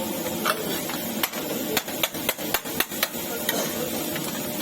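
A metal spatula knocking and chopping against a karahi as brain is fried in it: a quick, irregular run of about eight sharp metal knocks over the first three seconds, over a steady background hiss.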